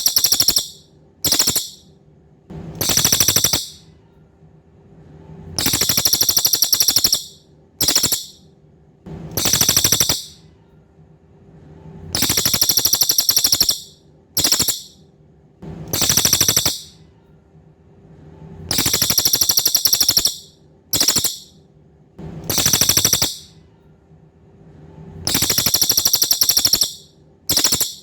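Cililin songbird repeating a very high-pitched, buzzy trilling call. Long trills of about a second alternate with short clipped notes, one every one to three seconds.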